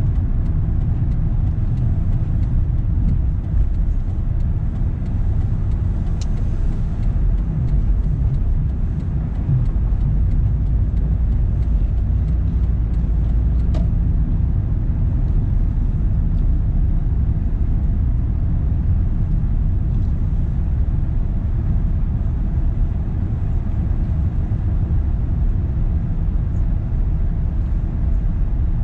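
Car on the move: a steady low rumble of engine and road noise that holds level throughout.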